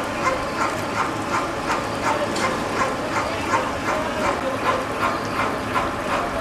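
Train washing machine running, with a short squeaky knock repeating evenly about three times a second.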